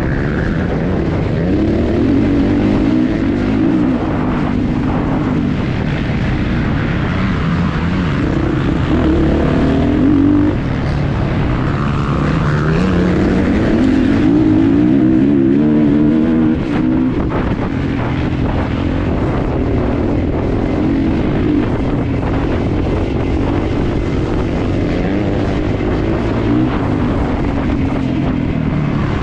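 Kawasaki KX450's single-cylinder four-stroke motocross engine revving hard and backing off repeatedly as the bike is ridden around the track, with the pitch climbing through the gears and falling on the throttle. The throttle shuts off for a moment about two-thirds of the way through, and wind rushes over the microphone throughout.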